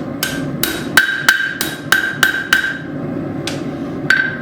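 Hand hammer striking hot steel on an anvil while straightening a forged hook of half-inch square stock: about ten blows, most in a quick run of roughly three a second, then a pause and two more, each with a short metallic ring.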